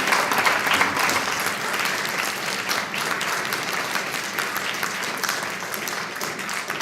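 Audience applauding: dense clapping from many hands that slowly thins and fades.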